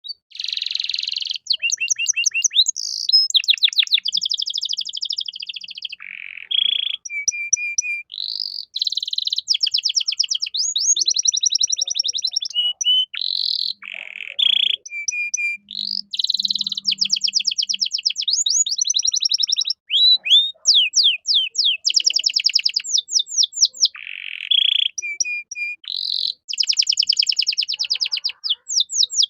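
Male domestic canary singing a long, continuous song of fast trills and rolls: rapid strings of repeated high notes and quick rising and falling phrases, broken by short pauses.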